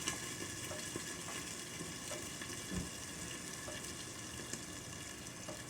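Smothered potatoes and onions sizzling steadily in a cast-iron skillet, the burner just turned down to low to simmer them soft. A single soft knock comes about three seconds in.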